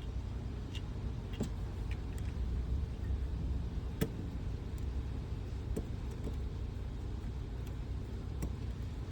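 Light scattered clicks, with one sharper click about four seconds in, as a ground wire is screwed down on a light switch with a screwdriver, over a steady low rumble.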